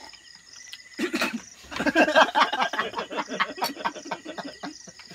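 People laughing loudly for about four seconds, starting about a second in, over crickets chirping steadily.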